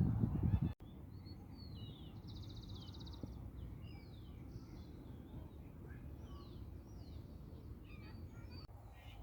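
Birds chirping over a steady low rumble: short downward-sliding chirps and a rapid trill. A louder low rumble fills the first second and cuts off suddenly.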